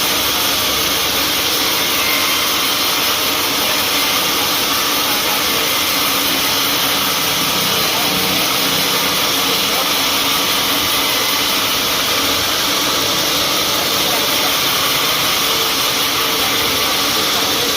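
Sawmill machinery running with a loud, steady, even noise that holds at one level without breaks.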